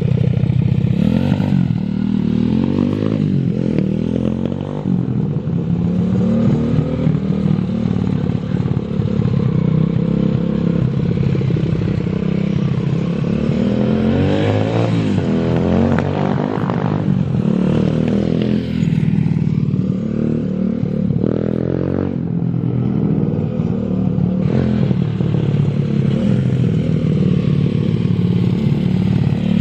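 125 cc four-stroke pit bike engine running, its pitch rising and falling several times.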